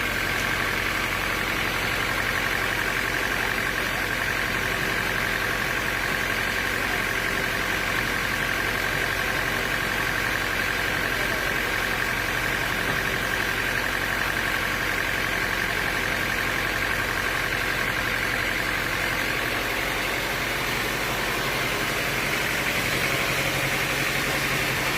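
Sawmill machinery running steadily, a constant low hum with a high whine over it that eases slightly about twenty seconds in.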